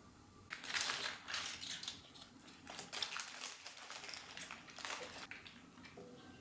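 Crinkly wrapping being handled: an irregular run of rustling, crackling bursts starting about half a second in and dying away about a second before the end.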